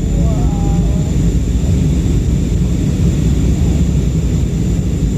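Jet airliner cabin noise: a steady, loud low rumble of engines and airflow, with a faint steady high whine above it.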